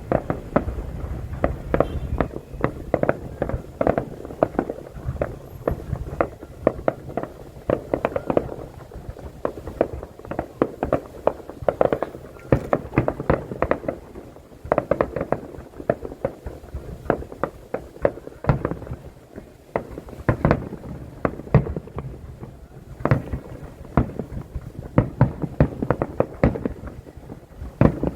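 Fireworks exploding in a dense, continuous barrage, many sharp bangs a second without a break.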